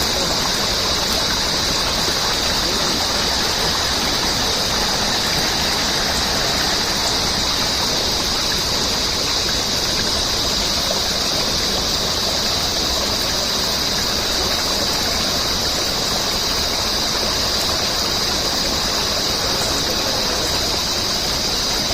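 Steady rush of a rainforest stream, with a constant high-pitched insect drone over it.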